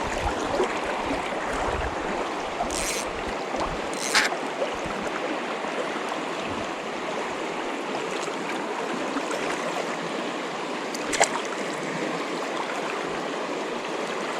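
Steady rush of flowing river water, with three brief sharp sounds about three, four and eleven seconds in.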